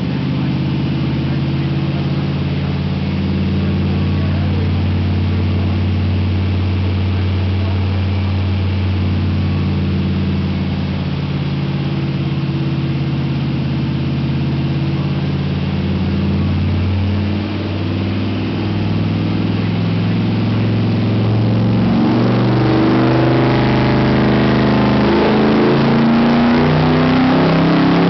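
1963 Ford Galaxie Lightweight's 427 V8 running on a chassis dyno, holding a steady engine note for most of the time. From about 22 seconds in, the revs climb and the note rises in pitch and grows louder and harsher under load.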